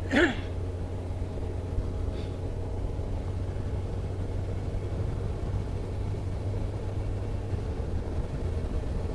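Car engine and road noise heard from inside the moving vehicle: a steady low rumble with a faint steady hum.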